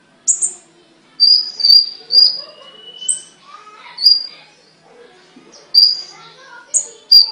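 Caged songbird singing: a run of sharp, high whistled notes repeated every half second to a second, with a longer level whistle about three seconds in and softer lower warbling between the notes.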